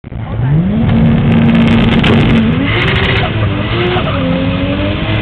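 Car engine revving hard at a drag strip: the pitch rises quickly, holds steady for about a second and a half, then climbs again in steps from about two and a half seconds in.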